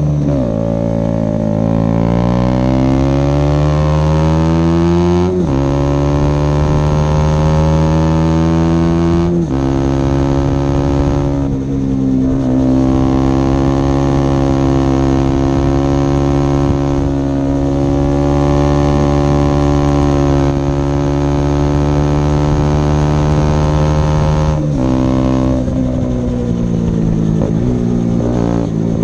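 Single-cylinder four-stroke engine of a 2011 KTM Duke 125 running hard through an Akrapovic silencer with no dB killer and a Leovince decat pipe, under load on a climb. The note rises through the gears, with gear changes about five and nine seconds in, then holds steady revs for a long stretch before it changes again near the end.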